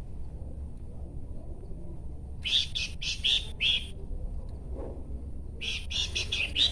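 Pelanduk semak (Horsfield's babbler) singing two short phrases, each a quick run of four or five clear notes, about two and a half seconds and five and a half seconds in, over a faint steady low hum.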